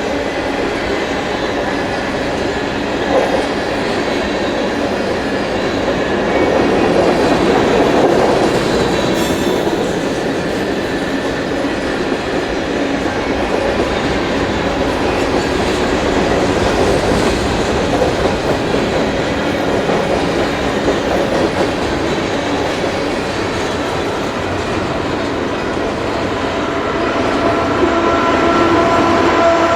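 Canadian Pacific manifest freight cars rolling past at a grade crossing: a steady rumble and clatter of steel wheels on rail. Near the end thin, steady wheel-squeal tones come in over the rumble.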